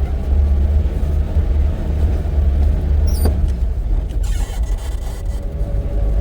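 Safari vehicle's engine running with a steady low rumble as it drives, with a short high squeak about three seconds in and a brief burst of noise a second later.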